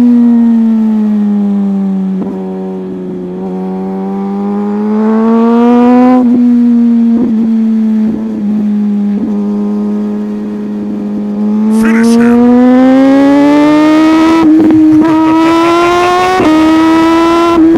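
Motorcycle engine running under way, its pitch sagging slowly, holding, then climbing again with the throttle. Near the end there are a couple of sudden small jumps in pitch.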